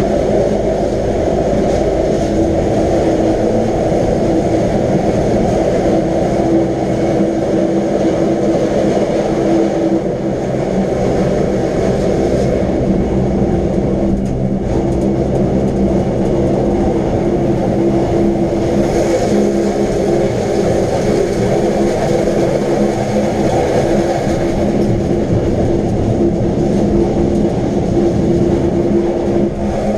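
Electric rack-railway train running steadily: a continuous rumble with a steady motor hum.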